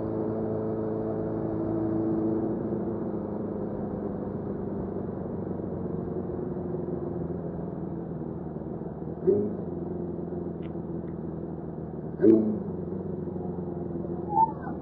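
Suzuki GSF600 Bandit's inline-four engine running while riding, a steady hum that eases off about two and a half seconds in. It is heard through an earbud microphone that leaves it dull, with no treble. A few short loud bursts break in, about nine, twelve and fourteen seconds in.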